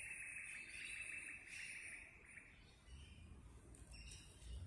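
Faint low rumble of an approaching Adelaide Metro train, building from about three seconds in. It is preceded by a high, rapidly pulsing chirring that lasts about two seconds.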